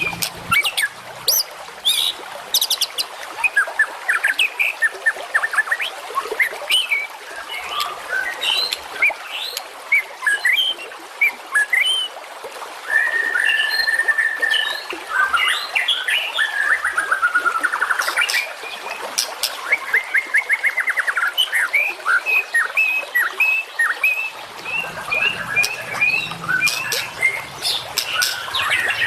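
Recorded songbird song of the kind used to train singing birds: a dense run of sharp chirps and short whistles. About halfway there is one held whistle, then a fast trill, and near the end a series of evenly repeated notes.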